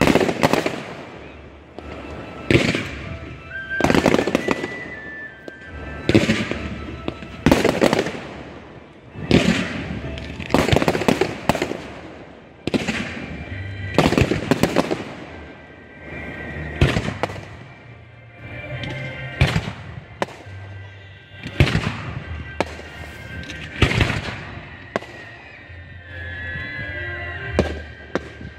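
Aerial fireworks shells bursting overhead in quick succession, a loud bang every second or two, some bursts trailing into a rapid run of crackles.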